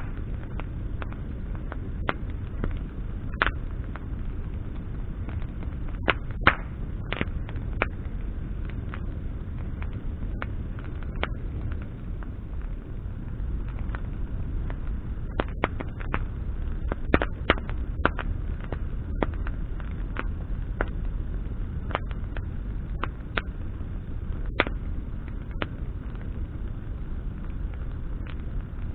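Wood campfire burning, crackling with sharp irregular pops, some singly and some in quick clusters, over a steady low rumble.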